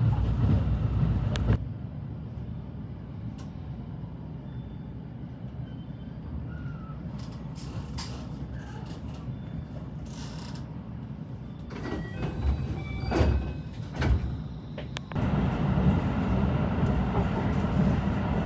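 Running noise of a JR West 223 series 5000 electric train: a low rumble that drops off abruptly about a second and a half in, leaving a much quieter stretch with scattered clicks and knocks, then comes back just as abruptly near the end.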